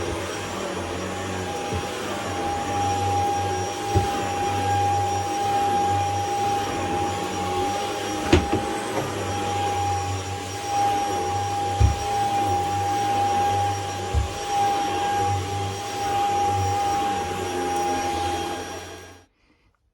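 Shark HZ500UK Anti Hair Wrap corded stick vacuum running steadily with a constant high whine while vacuuming, with a few sharp knocks, then switched off near the end, the motor cutting out abruptly.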